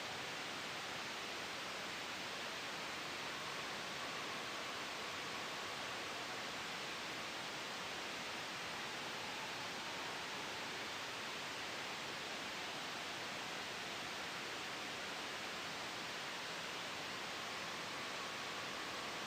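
Steady, soft white-noise hiss blended with a gentle wind sound, even and unchanging throughout, with faint whistling tones drifting in and out now and then.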